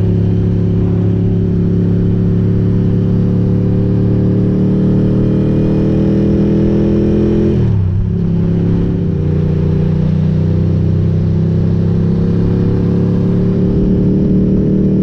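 Ducati GT1000's air-cooled L-twin engine through Termignoni exhaust pipes under steady acceleration. The engine pitch climbs slowly, drops sharply about halfway through at an upshift, then climbs again.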